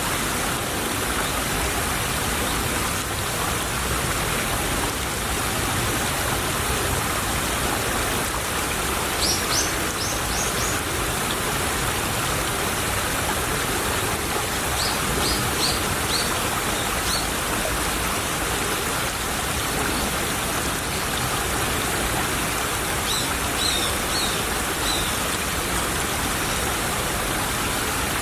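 Small stream flowing in a steady, even rush of water. Short high chirps come in three brief groups, about a third of the way in, a little past the middle, and near the end.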